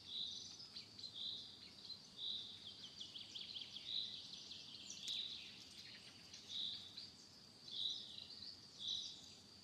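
Wildlife ambience: a short, high call repeats about once a second over a steady high-pitched whine and scattered quick chirps.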